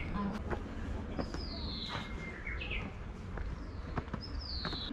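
Birds calling: two long high whistles that slide down in pitch, with shorter chirps between them, over a steady low rumble and scattered short clicks.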